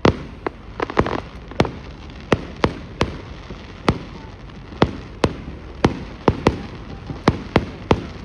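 Fireworks going off: an irregular string of about twenty sharp bangs, two or three a second, some with a short echoing tail.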